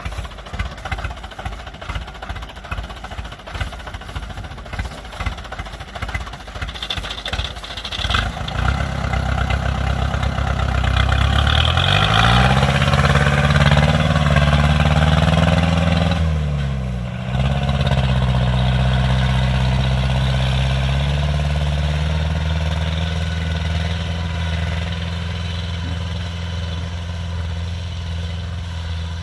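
Diesel engine of a tracked rice-harvesting machine, idling with an uneven clatter, then speeding up about a third of the way in and running hard. It drops briefly just past the middle, then settles at a steady, somewhat lower speed.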